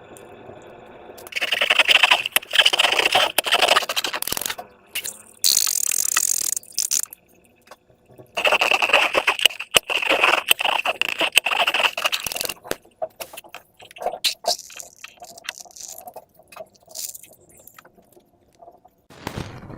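Slime being squished and worked by hand, with sticky crackling, clicking and scraping sounds in two longer bouts and scattered small clicks between them.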